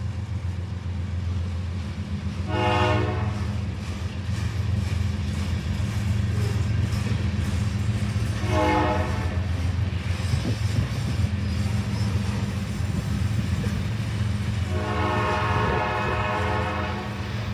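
Freight train of covered hoppers and tank cars rolling past with a steady low rumble. A locomotive air horn sounds three times, the third blast longest.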